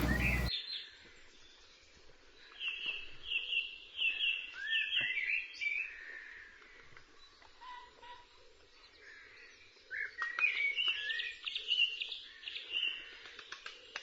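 A songbird singing: a run of repeated high notes a couple of seconds in, then a second burst of song about ten seconds in, over faint background noise.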